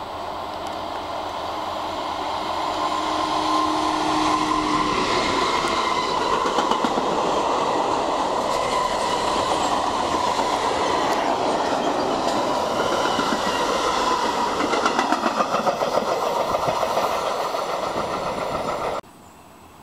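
A freight train rolling past close by, growing louder over the first few seconds, its wagon wheels clattering over the rail joints. The sound cuts off suddenly just before the end.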